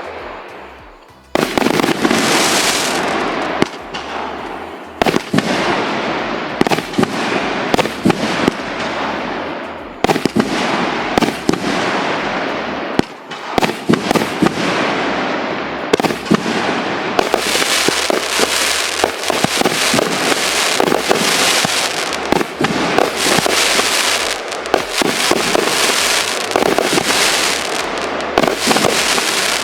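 A 110-shot, 1.75-inch consumer fireworks cake firing a continuous barrage of launches and aerial breaks with crackle. It starts about a second in after a brief lull and grows denser in the second half.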